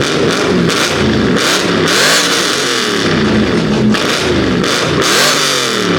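A car engine being revved again and again in quick blips, its pitch rising and falling several times a second, with crackles at the top of several revs.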